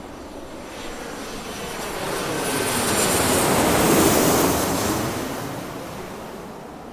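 Airplane noise swelling to a peak about four seconds in and then fading, the rise and fall of an aircraft passing.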